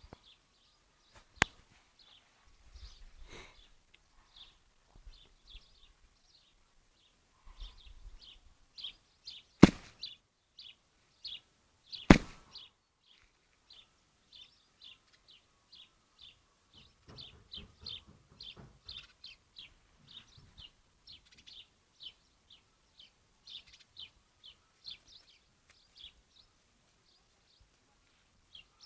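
Short, high chirping calls repeating about twice a second, with three sharp clicks, the loudest about ten and twelve seconds in.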